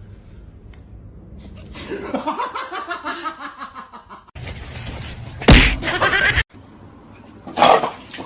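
A person laughing in quick bursts, then a loud sharp smack.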